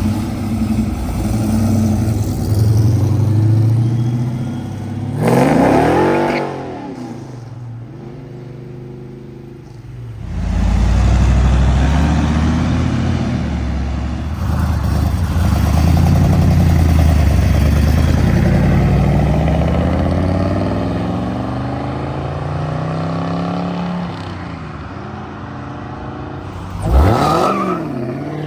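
Muscle and classic car engines accelerating away one after another with loud exhaust. One car passes close by about five seconds in and another near the end, each rising then falling in pitch, with a long loud low engine stretch between them.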